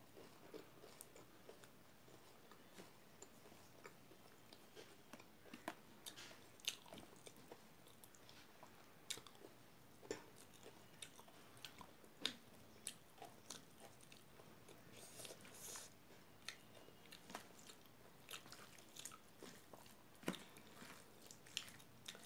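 Quiet close-up chewing of hand-eaten rice, with scattered sharp mouth clicks and smacks at irregular intervals.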